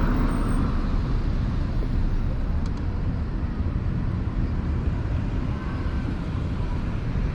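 Steady rumble of road and traffic noise while riding an electric motorbike through city streets, heaviest in the low end.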